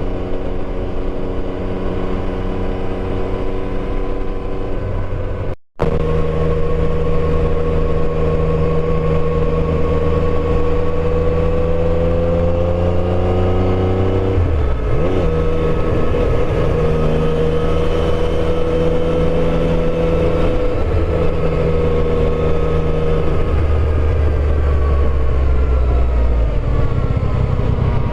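Yamaha Tracer motorcycle engine running under way. The engine note climbs slowly, then shifts around the middle and again near the end as the revs and gears change. A brief cut interrupts it about six seconds in.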